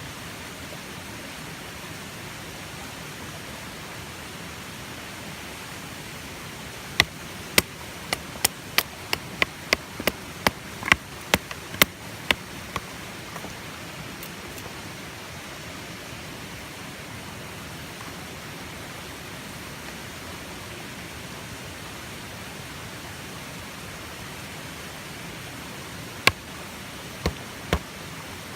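A run of sharp knocks, about two a second for some five seconds, then three more near the end, over a steady hiss.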